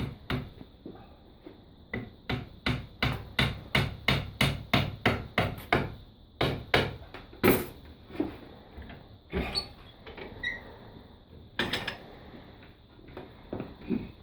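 A small hammer tapping a brad into a wooden hurley, pinning the glued break. It starts with a quick run of light strikes, about three a second, followed by a few louder, scattered taps.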